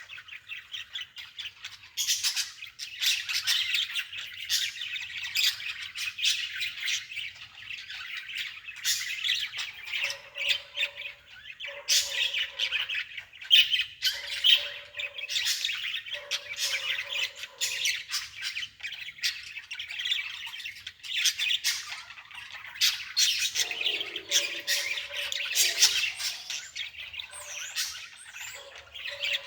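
Many birds chirping and squawking in a dense, continuous chorus, with a lower note sounding four times about midway.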